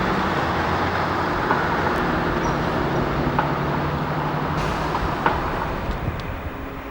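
Diesel train's engine running steadily, with a few sharp metallic clanks; the engine tone drops away about four and a half seconds in and the sound fades slightly near the end.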